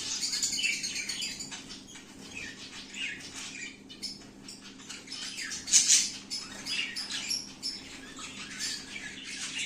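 Zebra finches chirping, with many short, repeated calls and a louder burst about six seconds in.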